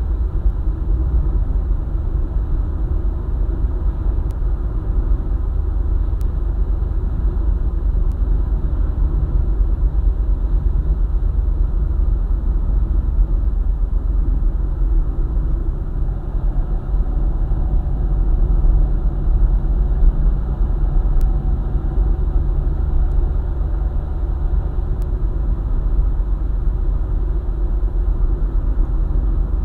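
Car driving along a highway: a steady low rumble of road and tyre noise mixed with the engine running at cruising speed.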